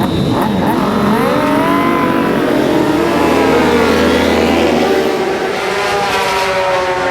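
Racing motorcycle engine running at high revs, its pitch climbing about a second in and then easing down over the next few seconds.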